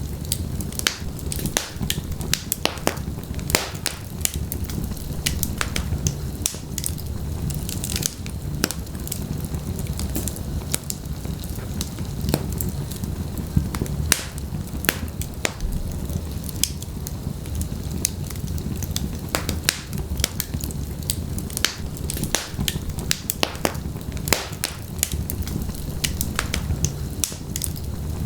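Wood fire in a fireplace burning steadily, with a low rumble of the flames under frequent sharp, irregular crackles and pops.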